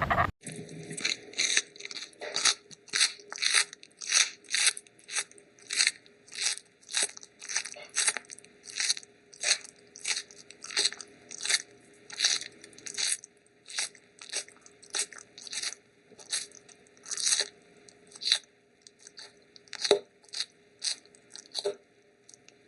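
Crunchy chewing: a long run of sharp, bright crunches, about two to three a second and unevenly spaced, over a faint steady hum.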